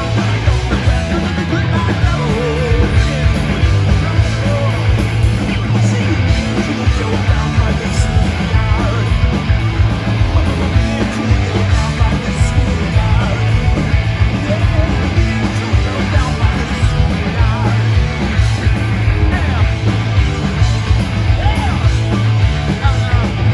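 Loud punk rock music with distorted electric guitars, drums and shouted vocals.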